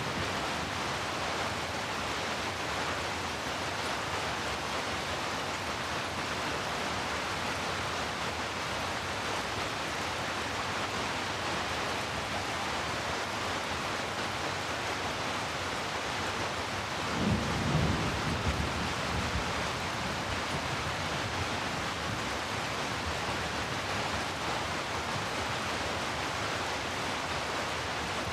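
Steady rain falling as an even hiss, with a brief low rumble of thunder about two-thirds of the way through.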